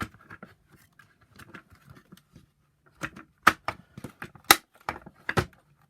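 Hard plastic parts of a Shark vacuum power nozzle clicking and knocking as a part is wiggled over a plastic edge and pressed into place, with light ticks at first and a few sharp clicks in the second half.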